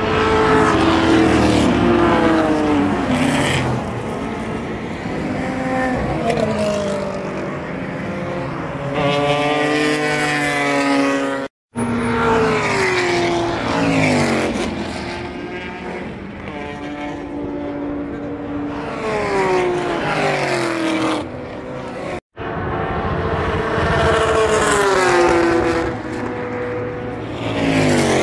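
Race cars running hard on a circuit: engines climb in pitch as they rev up, then drop in pitch as each car passes, several times over. The sound cuts out abruptly twice, at about a third and two thirds of the way through.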